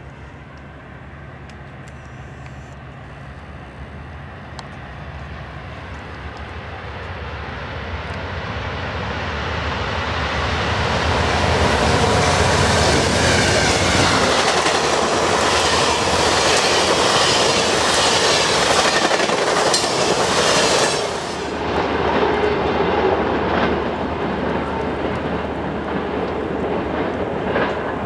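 A passenger train approaching and passing at speed. Its rumble builds for about ten seconds, then wheels clatter over rail joints in a loud, rhythmic run that dips briefly about two-thirds of the way through and carries on.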